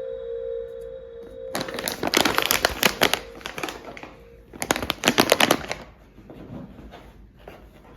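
Paper crinkling and rustling in two bursts, the second shorter, with faint crackles between and after; a lingering chime note fades out at the start.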